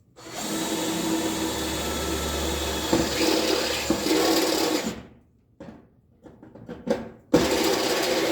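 Power drill with a step drill bit cutting through the thin sheet-metal shell of a toaster oven. It runs steadily for about five seconds, then a few light clicks follow, and a second shorter run of the drill comes near the end.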